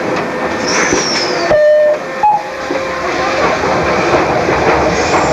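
Docklands Light Railway train running on an elevated track, a steady rumble heard from inside the car. About a second in there is a brief high squeal that falls in pitch.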